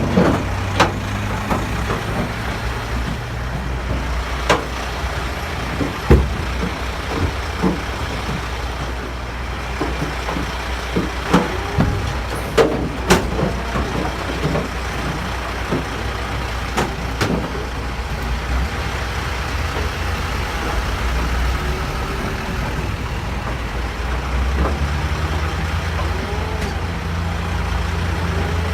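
Livestock truck's engine idling steadily, getting louder about three quarters of the way through. Scattered sharp knocks and bangs come from a distressed cow struggling against the truck's crate.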